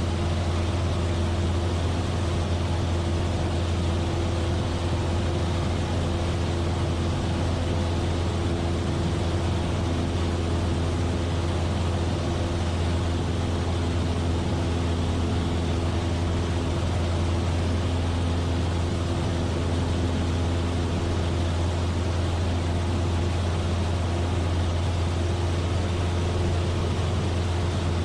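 Cabin drone of a Cessna 172F's Continental O-300 six-cylinder piston engine and propeller in steady flight: a constant low hum with a few steady higher tones over even wind and engine noise, unchanging throughout.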